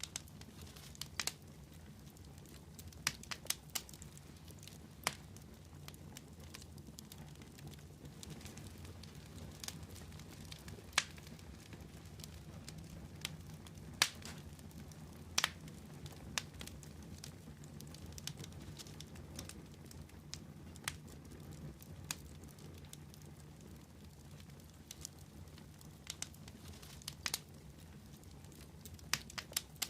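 Wood fire burning with a steady low rumble, and irregular sharp crackles and pops from the burning wood, a dozen or so scattered through.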